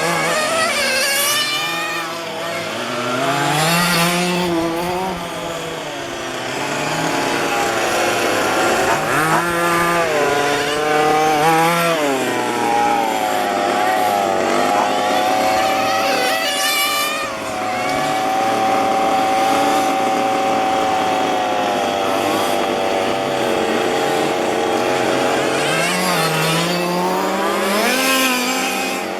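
Several 1:5-scale gasoline RC cars' small two-stroke engines revving up and down as they lap, their pitches rising and falling and overlapping. Midway one engine holds a steady high pitch for several seconds.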